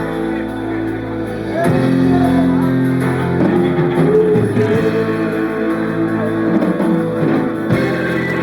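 Live rock band playing, guitar prominent, with a bending melodic line coming in about two seconds in.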